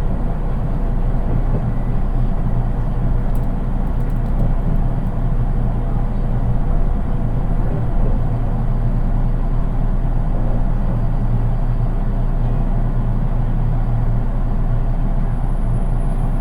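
Steady interior noise of a JR East 183 series train's non-powered control car: a loud low rumble and hum with a faint steady tone above it and a few light ticks a few seconds in.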